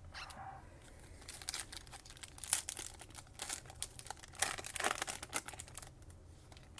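Trading card pack's foil wrapper crinkling and tearing open, in a quick irregular run of crackles.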